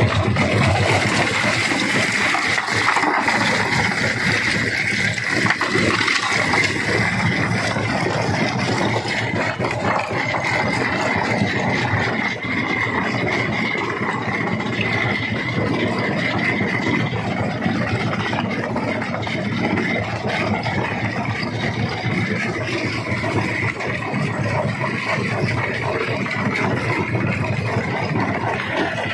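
Rock crusher running and breaking stone: a loud, steady mechanical din with a constant high whine and many small knocks throughout.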